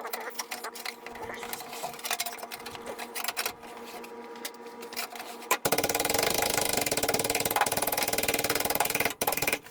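Light taps and clicks of sheet-metal work over a steady hum, then a little past halfway a metalworking tool starts suddenly with a loud, rapid, even chatter that runs for about three and a half seconds and stops.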